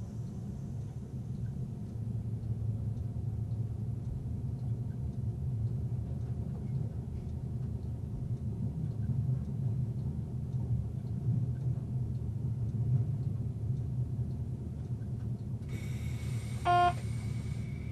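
Train running steadily along the line, a constant low rumble heard from inside the driver's cab. Near the end a hiss comes in and a single short, loud electronic beep sounds.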